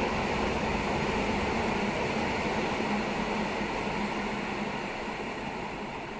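Commuter train running away through the underground station: a steady rumble with a low hum that slowly fades as it recedes.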